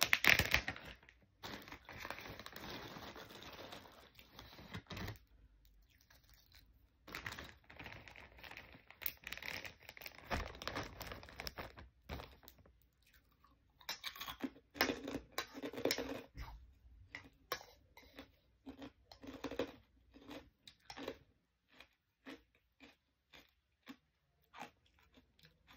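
A clear plastic zip-top bag crinkling and rustling for the first few seconds and again from about 7 to 12 seconds in. After that comes close-up crunchy chewing of chicharon (fried pork rinds) in irregular bursts, thinning out to small scattered clicks near the end.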